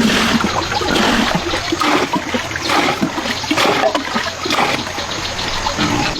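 Water splashing and pouring, with many irregular splashes.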